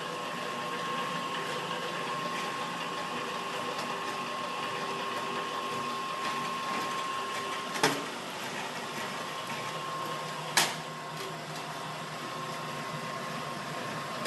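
Lockformer roll-forming machine running steadily with a thin steady whine, forming a duct seam in 0.65 mm sheet metal. Two sharp knocks stand out, one a little past halfway and another about three seconds later.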